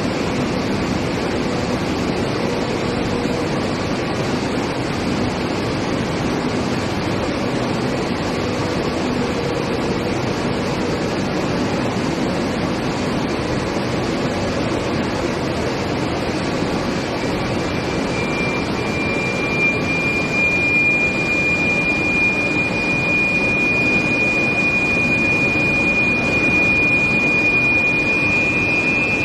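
Steady industrial noise from a steel plate induction reheating line in operation. A high-pitched steady whine comes in a little over halfway through and grows louder, and a second, slightly higher whine joins near the end.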